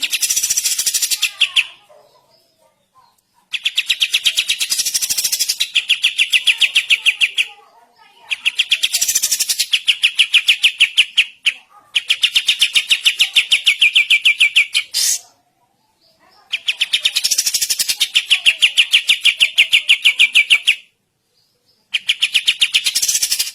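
A kapas tembak, a small bulbul, singing hard in fast rattling trills. There are six bouts of rapidly repeated high notes, each lasting two to four seconds, separated by short pauses.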